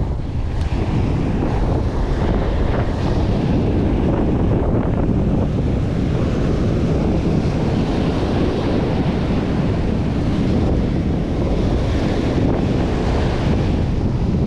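Strong wind buffeting the microphone, a steady low rumble, over the wash of surf on the beach.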